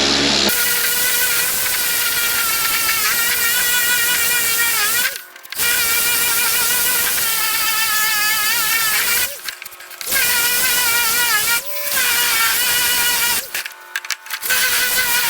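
A high-pitched electric power tool whining under load, its pitch wavering as it works, stopping briefly four times and starting again.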